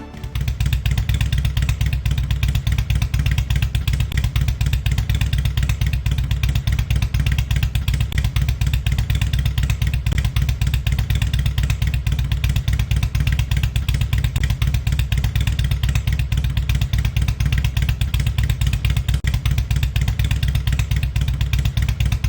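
Motorcycle engine running steadily, a low pulsing sound that holds even without revving.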